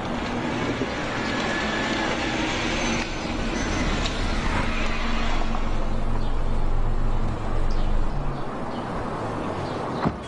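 Mercedes-Benz SLK roadster's engine running as it drives in and pulls into a parking area, a steady low rumble that swells to its loudest about eight seconds in. A car door shuts with a short sharp knock near the end.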